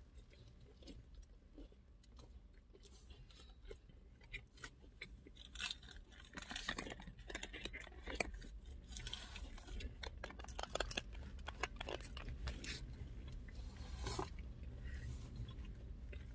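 Close-up chewing of a crispy Popeyes spicy fried chicken sandwich: faint, irregular crunching and small crackles. Under it is a low, steady hum.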